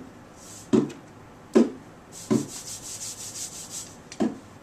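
Classroom percussion sound effect: slow, evenly spaced low drum beats about every 0.8 s, with a rapid high scraping rattle, like sandpaper blocks or a guiro, from about two seconds in to about four.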